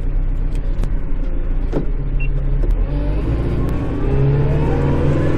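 Kubota L5740 tractor's diesel engine running, heard from inside the cab, with a few light clicks; about three to four seconds in the engine note steps up and gets louder as the revs or load increase.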